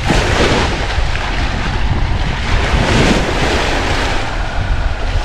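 Sea surf washing onto the beach, with a wave surging in about half a second in and another around three seconds, over steady wind rumbling on the microphone.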